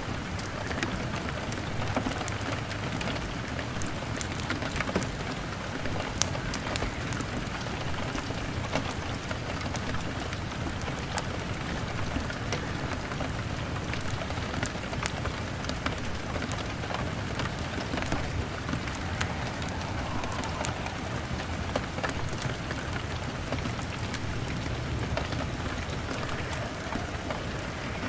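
Steady rain against a window mixed with a crackling fire: an even hiss dotted with many small sharp cracks.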